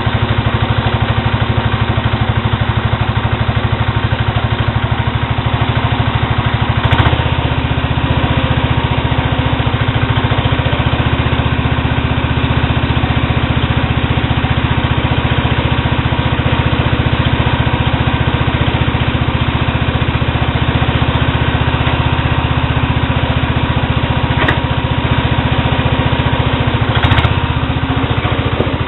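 Sears Suburban SS12 garden tractor engine idling steadily with no muffler fitted, warming up after a cold start. A few brief clicks or knocks sound over it.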